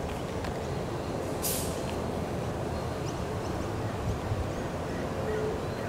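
Queensland Rail electric train rumbling steadily, with one brief sharp hiss of air about one and a half seconds in.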